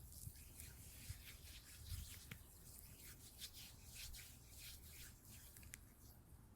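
Faint, irregular rubbing and scratching strokes close to the microphone, several a second: an ASMR trigger.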